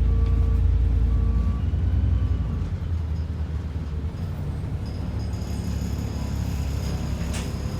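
Double-decker bus engine running, heard from inside the bus: a deep rumble that is heaviest for the first couple of seconds and then eases. A few short beeps sound over the first two seconds, and there is a sharp click near the end.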